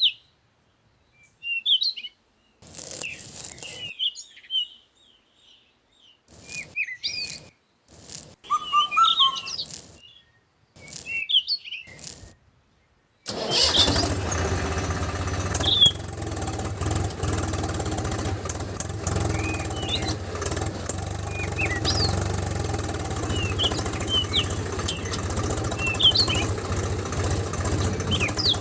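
Birds chirping in short, choppy snatches. About halfway through, a small engine starts up and keeps running steadily, with birds still chirping over it.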